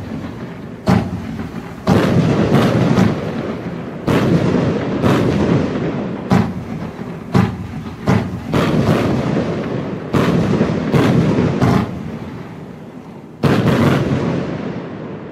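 A 16-shot, 30 mm fireworks cake firing: sharp reports roughly once a second as its tubes launch and burst white strobe and pink stars, each trailing into echo. The last shot comes near the end and its echo fades away.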